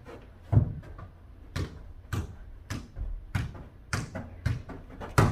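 Ball being kicked and bouncing during a mini jokgu (foot volleyball) rally: a string of about eight sharp thuds, roughly one every half second to second.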